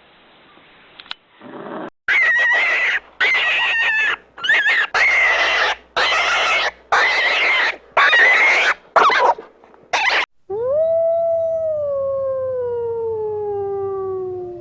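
A dog or wolf howling. First comes a run of harsh, loud cries about a second long each, with short breaks between them. Then one long clear howl slides slowly down in pitch.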